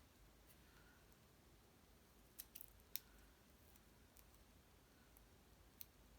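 Quiet room tone with a few small sharp clicks, three or four close together around the middle and one more near the end, from hands working small paper pieces and adhesive dots.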